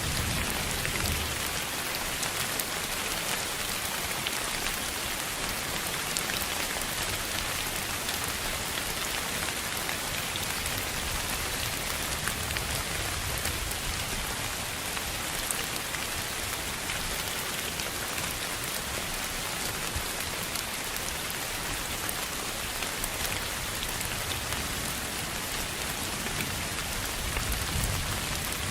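Continuous sleep-noise track: a steady, even hiss that does not change, with a soft low rumble swelling about a second in and again near the end.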